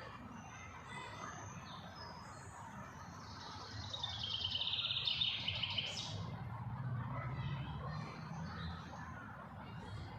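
Songbirds chirping, with one bird singing a loud rapid trill about three seconds in that falls in pitch and ends in a quick flourish, over a low background rumble.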